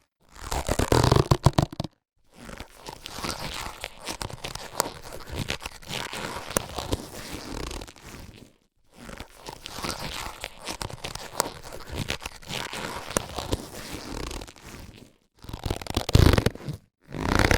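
Latex surgical gloves being handled, rubbing and crinkling in several stretches broken by brief pauses, the loudest handling near the start and near the end.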